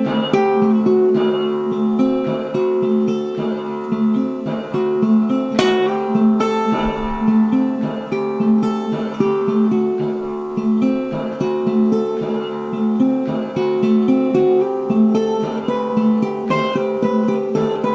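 Acoustic guitar music: plucked and strummed notes in a steady, flowing pattern.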